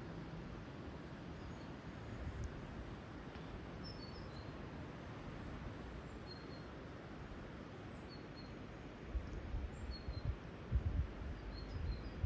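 Outdoor ambience: a steady background hiss with short, high bird chirps several times. Low rumbling bumps come in from about nine seconds on.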